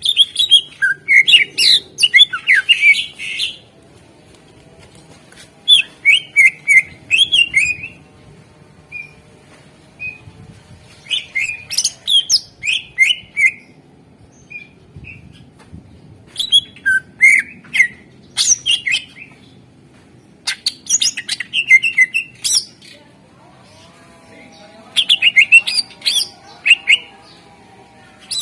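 Green leafbird (cucak ijo) singing in about six bouts of rapid, varied chirps and trills, separated by short pauses.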